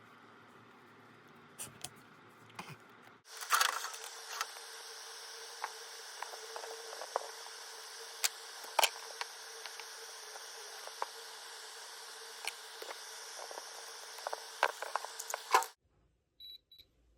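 Insulating tape being unwound and wrapped around the soldered power wires: a steady crackling hiss with many scattered clicks, starting abruptly about three seconds in and stopping suddenly near the end.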